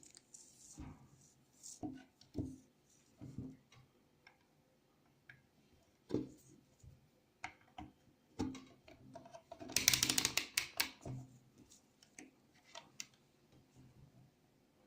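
Scattered light clicks and knocks of small objects being handled, with a brief burst of rapid rattling clicks about two-thirds of the way in.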